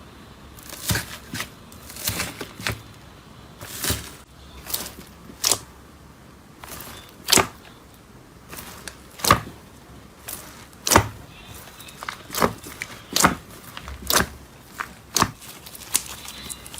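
Slime being squeezed and pressed by hand, giving sharp popping clicks at irregular intervals, roughly one a second.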